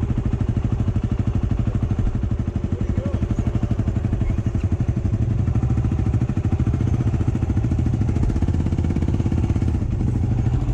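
Off-road motorcycle engine running steadily, with an even, rapid exhaust beat.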